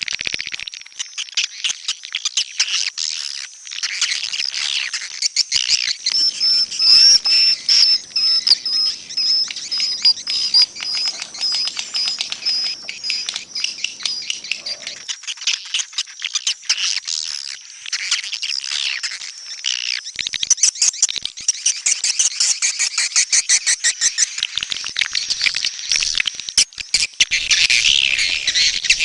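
Swiftlet calls: dense, rapid chirping and twittering mixed with fast clicks, all high-pitched. A thin, high steady tone runs through the middle for several seconds.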